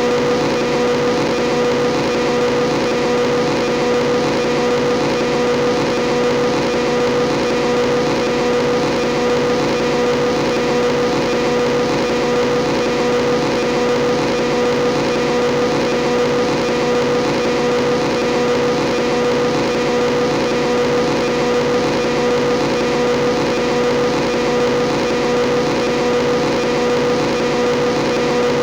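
Motorbike engine sound from the RevHeadz engine-sound app, held at one unchanging pitch as a steady, loud drone with no revving up or down.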